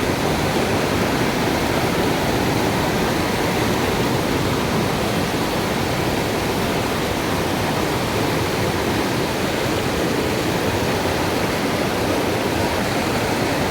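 Waterfall on a mountain stream pouring steadily: an even, unbroken rush of falling water.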